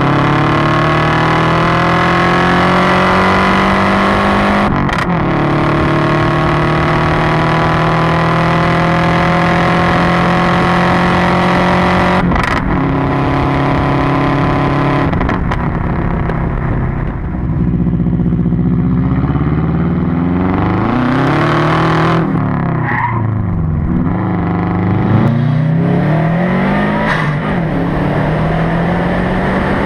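Subaru WRX's turbocharged flat-four engine with a straight-piped exhaust, pulling hard through the gears: the note climbs steadily, breaks off at gear changes about five and twelve seconds in, then the car eases off and the engine note falls and rises several times.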